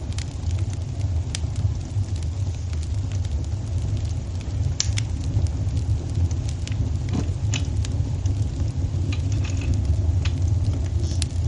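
Wood fire burning in a fireplace: a steady low rumble with sharp pops and crackles at irregular intervals.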